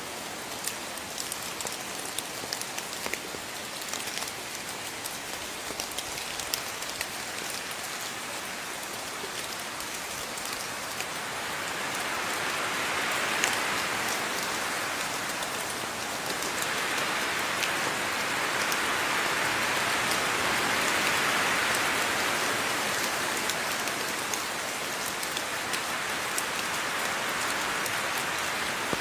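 Steady rain falling, with close drops ticking on a surface. It swells louder about a third of the way in and again past the middle, then eases a little near the end.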